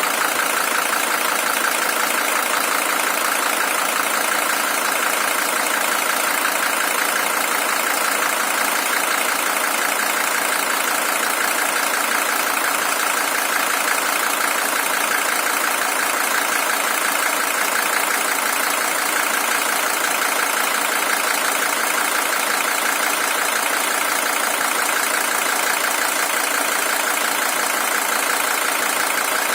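Mercedes-Benz OM617 3.0-litre five-cylinder diesel engine of a W123 300TD idling steadily. It is the original engine, with about 620,000 km on it.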